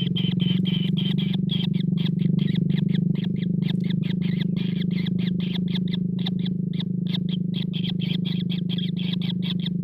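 Kingfisher giving a fast, continuous chatter of short, sharp calls, about five or six a second, over a steady low hum.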